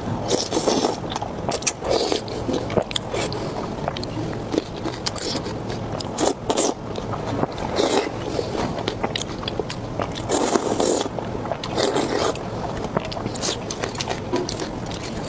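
Close-miked eating: a person biting and chewing food, with irregular wet clicks and short crackling bursts.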